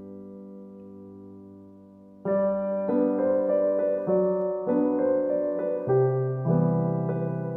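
Soft piano music: a held chord dies away, then about two seconds in a gentle melody starts with notes struck every half second or so.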